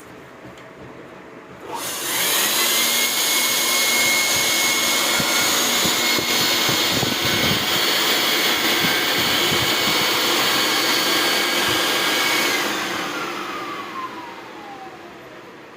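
Compressed air blown through a turbocharger: a loud rush of air and a high whine. The whine rises as it starts, holds steady for about ten seconds, then glides down and fades as the air stops.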